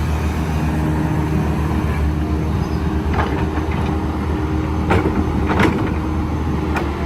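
Kobelco SK135SR crawler excavator's diesel engine running steadily while the machine works, with four sharp knocks from the working machine about three, five, five and a half and seven seconds in.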